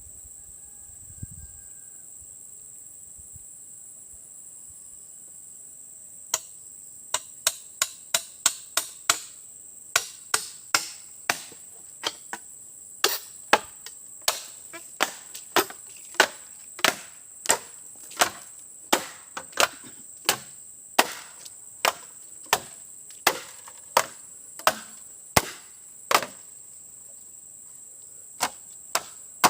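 Wood being chopped, sharp blows coming a little over once a second from about six seconds in, with a short pause near the end. Under it, insects keep up a steady high-pitched drone.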